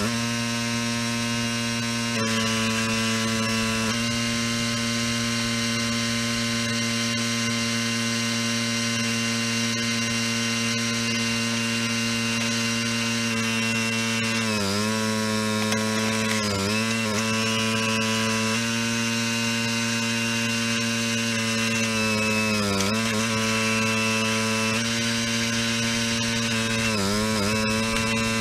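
Log splitter's small engine running steadily at a constant pitch, sagging briefly four times in the second half as it takes load and recovering each time.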